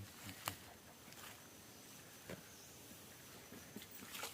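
Quiet outdoor ambience: a faint steady high tone over a low hiss, with a few isolated soft clicks.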